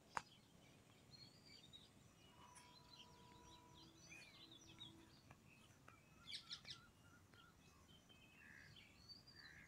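Near silence with faint, scattered bird chirps in the background, a small cluster of them about six and a half seconds in.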